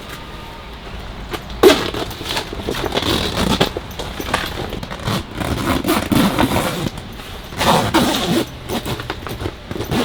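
Irregular scraping and rustling of things being handled, in a string of short bursts with a few knocks, starting a couple of seconds in.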